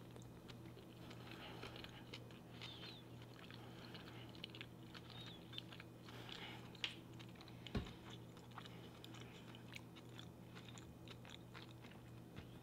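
Faint, close-miked chewing of a mouthful of sushi roll: soft wet mouth sounds with many small clicks, and a single sharper knock about eight seconds in, over a steady low hum.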